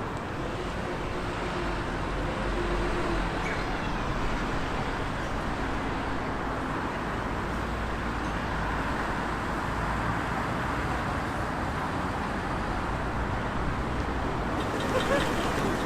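City street traffic noise: road vehicles passing with a steady low rumble.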